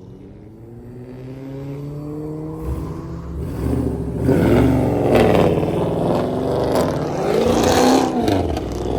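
Car engine rising slowly in pitch, then revved hard from about four seconds in, the pitch swinging up and down several times.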